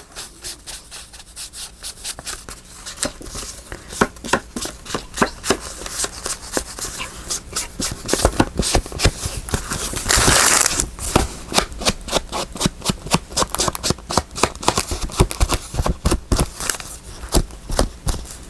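Hands working paper and craft tools on a tabletop: many quick, irregular taps and clicks, with a louder burst of paper rustling about ten seconds in.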